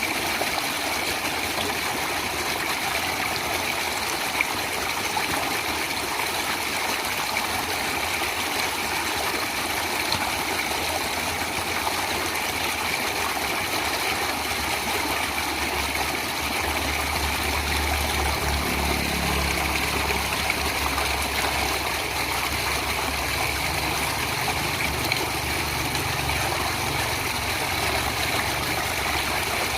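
Stream of running water flowing steadily. About halfway through, a low rumble joins in underneath and carries on.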